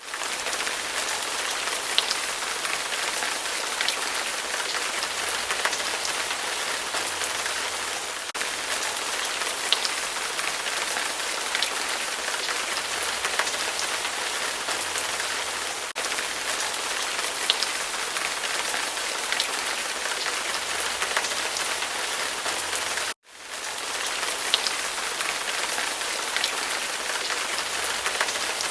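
Recorded rain soundtrack: steady rain falling, with occasional louder single drops. It cuts out abruptly for a moment about 23 seconds in, then resumes.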